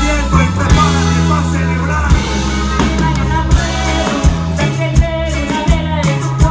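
Live band music with a bass line and a steady drum beat, hits coming about every 0.7 seconds.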